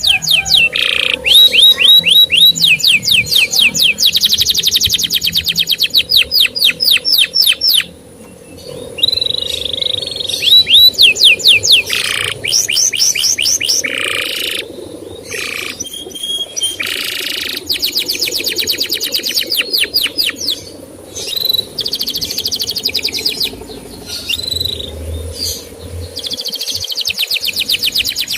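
Male canary singing: rapid trills of quickly repeated chirps, in phrases of a few seconds broken by short pauses, with a brief break about eight seconds in.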